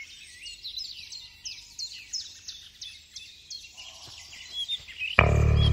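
Birds chirping, many short repeated chirps and whistles. Background music with a steady low bass comes in suddenly and loudly about five seconds in.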